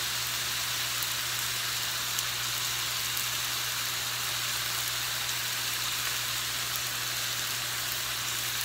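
Diced chicken frying in a little oil in a nonstick pan: a steady sizzle with faint crackles, over a steady low hum.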